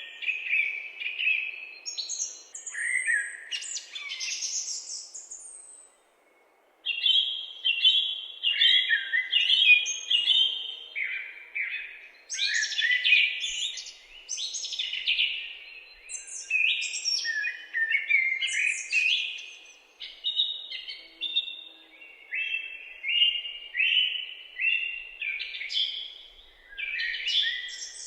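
Woodland birds chirping and singing in a dense, overlapping chorus of quick, sweeping notes, with a brief break about six seconds in.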